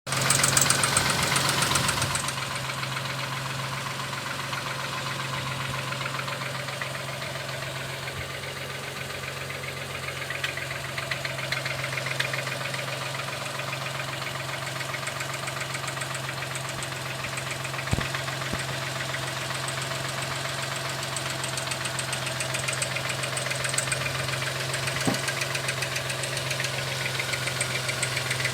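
An engine running steadily with a fast, even ticking knock, a little louder in the first couple of seconds, with a single sharper knock now and then. The knock is the fault the owner wants to fix.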